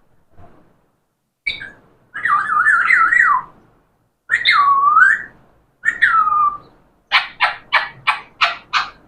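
Pet talking parrot whistling and calling in separate phrases: a short call, a wavering warble, two gliding calls, then a quick run of seven repeated notes near the end.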